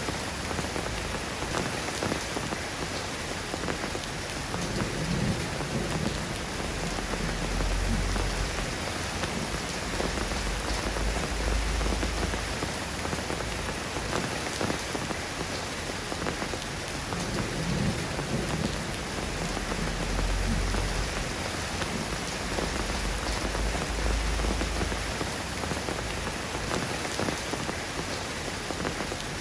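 Steady rain falling, an even patter throughout, with low rumbles that swell and fade several times underneath.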